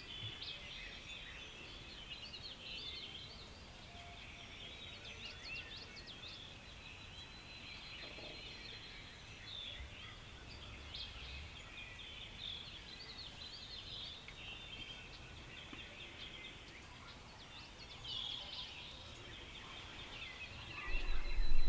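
Morning chorus of many songbirds chirping and trilling, with a wild turkey gobbler gobbling in the distance.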